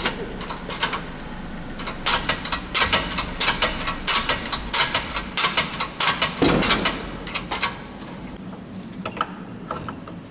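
Repeated sharp metallic clicks and knocks of tools working on car suspension parts, densest in the middle, with a short scraping slide about six and a half seconds in.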